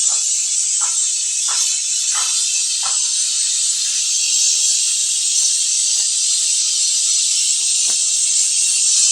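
Pressurised flush blowing through a refrigerator's clogged evaporator pipework: a loud, steady hiss. Faint pops come about every two-thirds of a second for the first three seconds, then only now and then.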